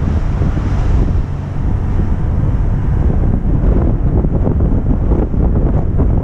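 Loud wind buffeting an unshielded microphone, a steady fluttering rumble on a vehicle driving down a mountain road, covering the vehicle's own sound.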